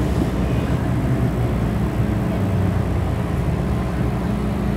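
MTR M-Train electric multiple unit running steadily: a continuous low rumble with a steady low hum.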